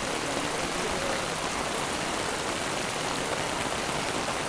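Heavy rain falling steadily, a dense even hiss of rain on water.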